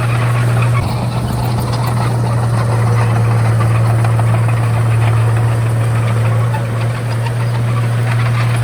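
Diesel engine of a Komatsu D31A bulldozer running steadily with a deep, even drone.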